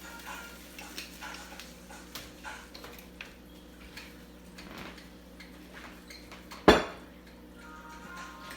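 Kitchen clatter of bottles, containers and utensils: light clinks and taps, with one sharp loud knock about two-thirds of the way through.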